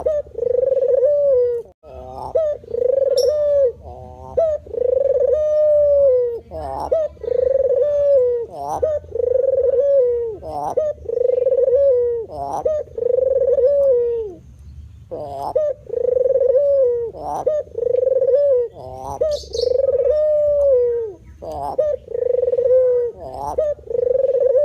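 White spotted dove (terkukur putih) cooing: loud coo phrases repeated about once a second, with one short pause about two-thirds of the way through.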